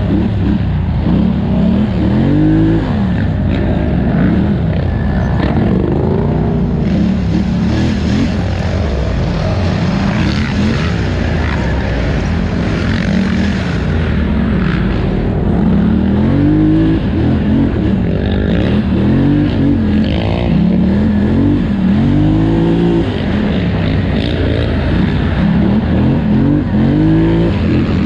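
2018 Polaris Scrambler XP 1000 ATV's parallel-twin engine racing, its revs rising and falling again and again every second or two as the throttle is worked.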